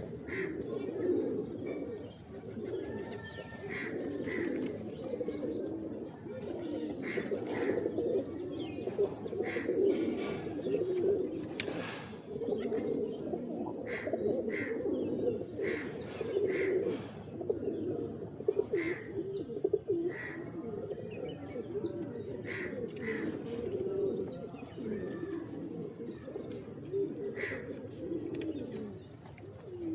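Pigeons cooing continuously, many voices overlapping, with short high chirps every second or two.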